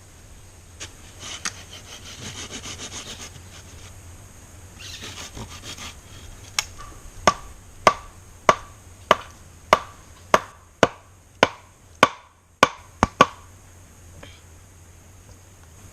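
Hand woodworking: two short spells of rasping on wood, then about a dozen sharp knocks at an even pace, about one and a half a second, each with a short ring.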